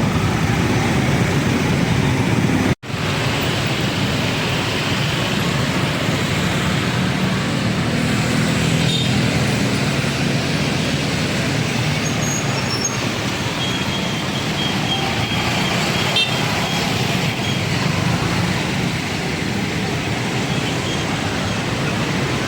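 Steady road traffic running past a railway level crossing. The sound cuts out for a split second about three seconds in.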